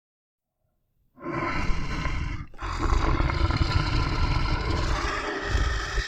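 A bear growling: a loud, rough, throaty growl that starts about a second in, breaks off briefly, then carries on.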